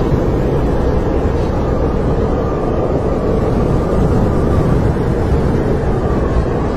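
Snowstorm wind blowing steadily: a deep, even rush with a faint wavering howl.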